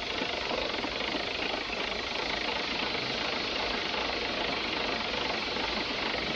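Steady rumbling run of a train moving along the track, an even noise with no distinct beats.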